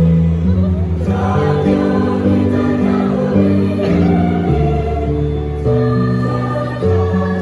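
A school choir singing in several parts, holding sustained chords that change about once a second.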